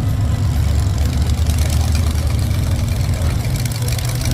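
Monster truck's Chevrolet V8 engine idling steadily.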